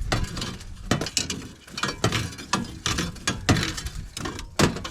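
Metal parts of an air conditioner being worked apart: irregular clinks, clicks and rattles, with one sharper knock near the end.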